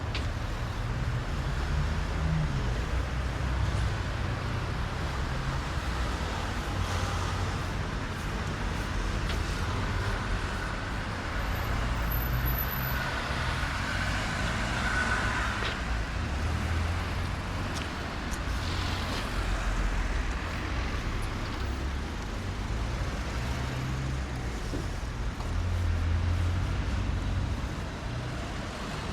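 Road traffic: a steady low rumble of engines, with several vehicles passing in turn and their tyre noise swelling and fading on wet road.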